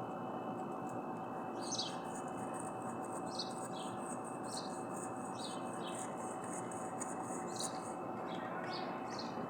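Birds chirping in short high chirps roughly once a second over a steady background hiss. A thin, high, continuous note runs from about two seconds in until near the end.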